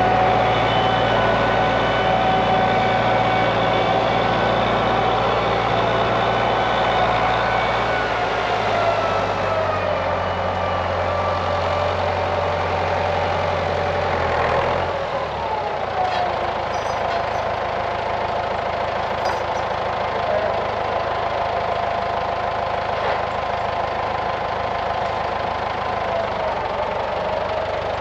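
Tractor engine running steadily under varying load, with a whine that slides down in pitch around the middle and climbs again near the end. The engine note drops about a third of the way in.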